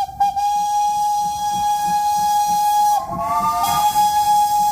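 Steam locomotive whistle blowing one long, steady blast. About three seconds in, the tone wavers and splits into a lower, rougher chord for under a second before settling back to its steady note.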